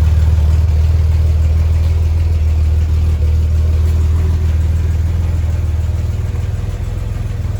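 1985 Chevy S10's carbureted 2.8-litre V6 idling steadily through a Borla muffler with no pipe after it.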